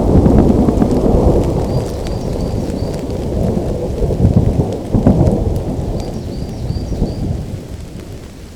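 Rolling thunder rumbling over steady rain, with a sharper surge of thunder about five seconds in, the rumble then dying away toward the end.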